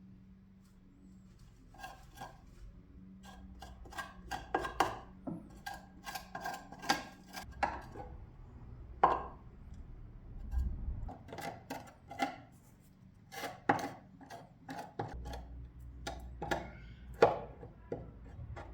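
Body filler being worked with a spreader: a string of irregular short scrapes and clicks as the putty is mixed and spread.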